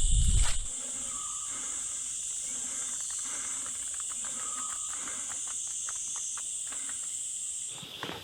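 Steady high-pitched drone of jungle insects, with a second, lower buzzing layer beneath it, that cuts off suddenly near the end. Low thumps in the first moment are louder than the drone.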